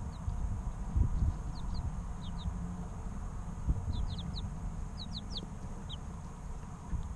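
Three-week-old chicks peeping: short, high, falling chirps scattered through, with several in quick succession around the middle. Under them a steady low rumble, with dull thumps about a second in and a little before four seconds.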